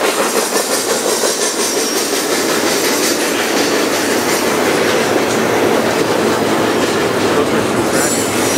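Double-stack intermodal container cars of a freight train rolling past, steel wheels clattering over the rail joints in a continuous stream of noise.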